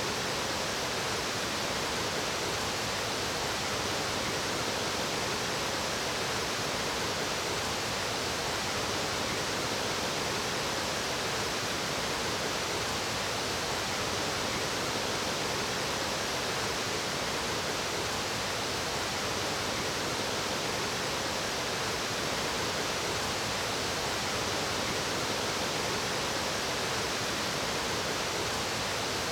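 Water of a mountain stream rushing steadily over rocks, an even, unbroken sound of running water.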